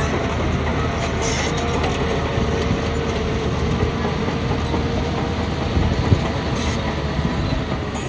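Heavy diesel earthmoving machinery working: an engine running steadily under a continuous rattling, clanking din, with a sharp knock about six seconds in.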